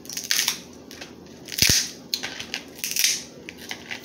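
Crab leg shells cracking and crunching, in several short bursts; the loudest crack, about halfway through, comes with a dull thud.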